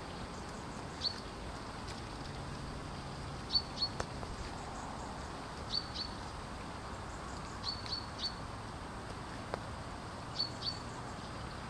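Short, high bird chirps, singly and in quick pairs, repeating every couple of seconds over a steady hiss of wind.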